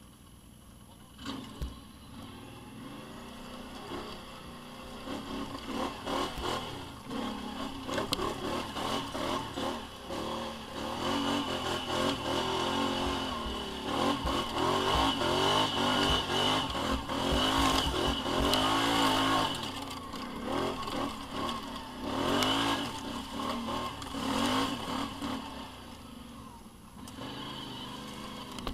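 Several motorcycle and quad engines revving and passing one after another, growing louder toward the middle and fading near the end.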